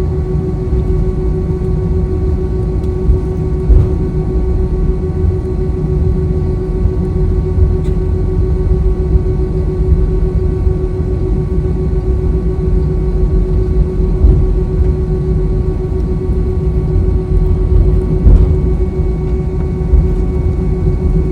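Jet engine and airflow noise inside the cabin of an Airbus A321 during takeoff: a steady low rumble with a constant hum and a few brief knocks.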